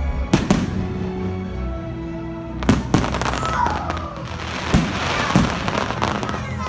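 Aerial firework shells going off in about half a dozen sharp bangs. From about three seconds in, a fizzing crackle of crackling stars joins them, all over steady show music.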